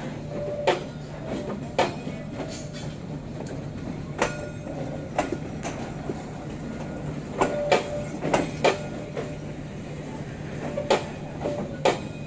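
Passenger train coaches rolling past, their wheels clicking sharply over rail joints about once a second, sometimes in pairs, over a steady low hum.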